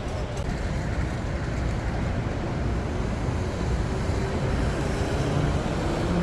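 Train running: a steady low rumble with a hiss over it, slowly growing louder.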